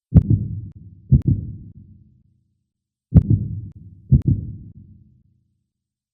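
Heartbeat sound effect: deep, low thumps in pairs a second apart, each dying away slowly, the pair repeating after about three seconds.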